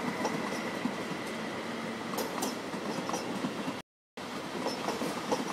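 Deutsche Bahn ICE high-speed train rolling past over station tracks: a steady rush of wheel-on-rail noise with scattered irregular clicks from the wheels. The sound cuts out for a moment about four seconds in.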